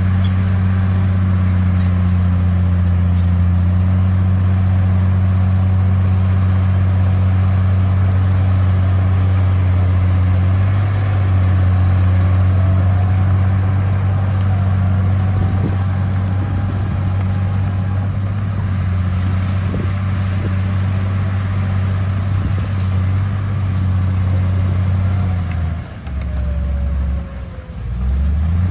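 Komatsu crawler bulldozer's diesel engine running steadily under load with a deep drone, with a faint whine rising and falling now and then; the engine note drops briefly near the end, then picks up again.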